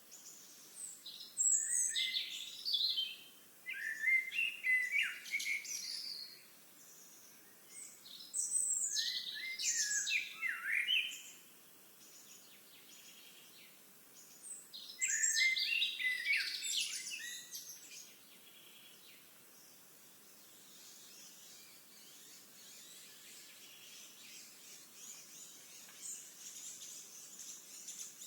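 A songbird singing four long, complex phrases of about two to three seconds each, with short pauses between them. A fainter, even high-pitched hiss follows in the last third.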